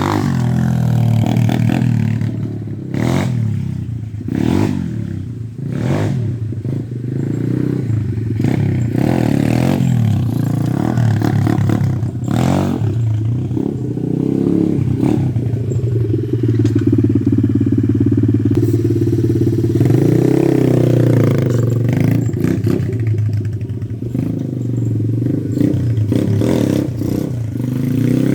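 125cc pit bike engine revving up and dropping back repeatedly as it is ridden, with short clattering knocks.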